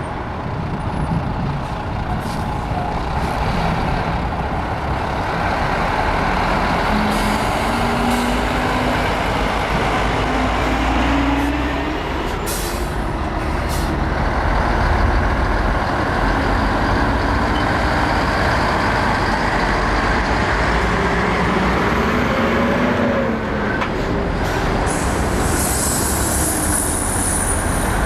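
Heavy diesel trucks running and pulling past, engine pitch rising and falling as they move off. Short hisses of air brakes come several times, and a thin high whine sounds near the end.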